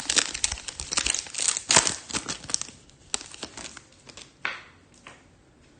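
Trading-card pack wrappers crinkling and tearing as card packs are ripped open and handled. The rustling is dense for the first two or three seconds, then turns sparser and quieter, with one more rustle about four and a half seconds in.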